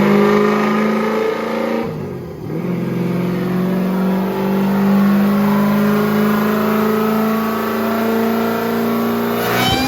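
Supercharged engine of a methanol-fuelled police car running under load on a chassis dyno. The note is steady apart from a brief dip about two seconds in.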